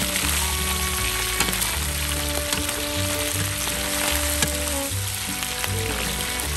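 Eels frying in hot oil in a steel wok: a steady sizzle, with a wooden spatula stirring them and making a few light scrapes against the pan. Low sustained notes of background music run underneath.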